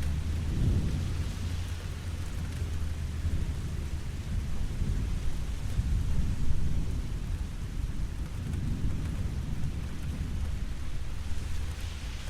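Steady rain falling, an even hiss, with a low rumble underneath that swells and fades, louder about half a second in and again around six seconds in.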